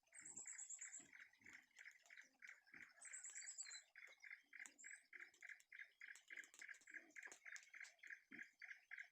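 Faint forest wildlife: a call pulsing evenly about four to five times a second, with a short high trill now and then.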